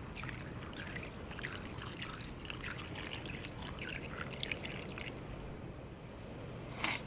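Fish-and-shrimp broth bubbling in a Dutch oven, an irregular crackle of small bubbles, with one short louder noise near the end.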